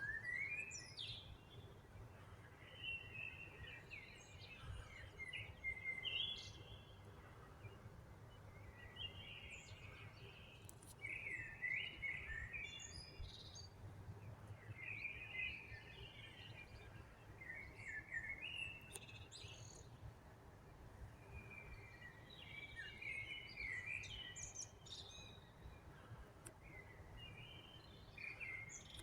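Songbirds singing in short, quick phrases of chirps every few seconds, over a steady low rumble.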